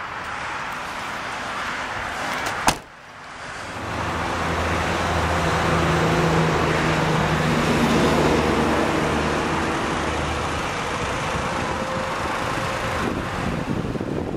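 A single sharp knock, then a passing road vehicle whose engine hum builds to a peak about eight seconds in and slowly fades.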